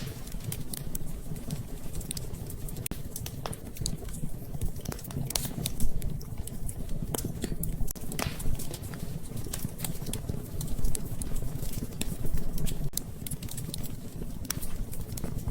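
Wood fire crackling in a fireplace: irregular sharp pops and snaps over a steady low rumble, with a louder pop about six seconds in and another about eight seconds in.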